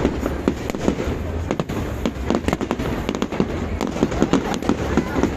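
Many fireworks and firecrackers going off at once, a dense, continuous run of bangs and crackles with no pause.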